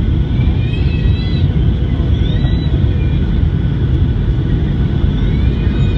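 Airliner cabin noise on approach to landing: a loud, steady low rumble of jet engines and rushing air.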